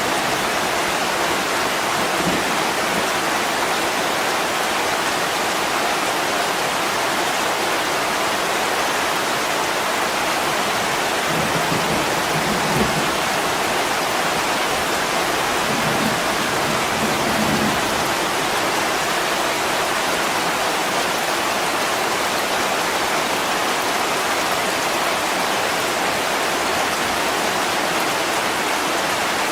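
Heavy rain falling steadily on a window, a dense even hiss of drops with no let-up. A few faint low rumbles rise under it around the middle.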